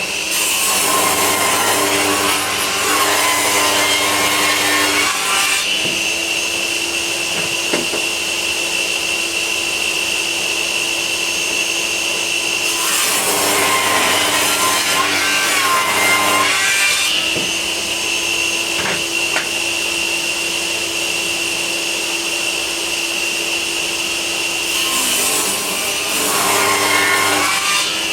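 A power saw cutting 2x4 timber. The motor runs steadily throughout, and three times the blade is fed into the wood with a rough cutting noise, about five seconds, four seconds and two and a half seconds long.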